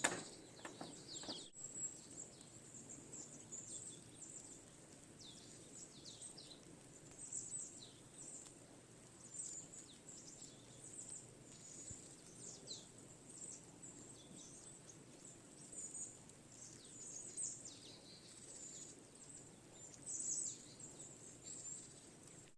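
Small birds chirping faintly over a quiet outdoor hiss: many short, high calls that slide downward, repeating every second or two.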